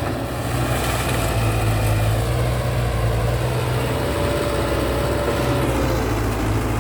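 Caterpillar 312D excavator's diesel engine running steadily, with a thin steady whine joining in about four seconds in.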